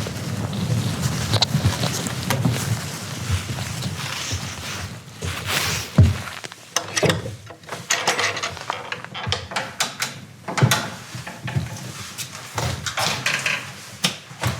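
A heavy thunk about six seconds in, then a run of short, irregular knocks and clicks, after a few seconds of rough, low noise.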